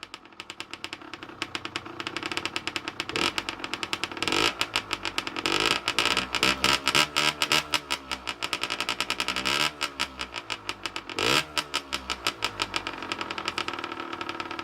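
Rieju MRT 50cc two-stroke engine ticking over and being revved with the throttle, its rev climbing about four times before dropping back. It runs through a completely gutted exhaust, freshly decarbonized, with the engine still restricted.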